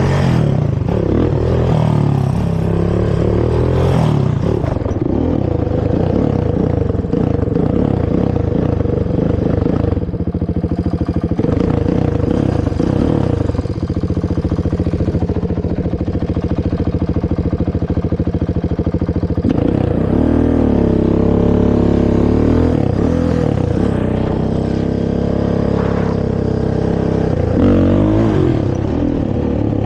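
Honda TRX450R quad's single-cylinder four-stroke engine running through its stock exhaust while being ridden. The revs hold fairly steady through the middle and rise and fall several times, near the start, about two-thirds of the way in, and at the end.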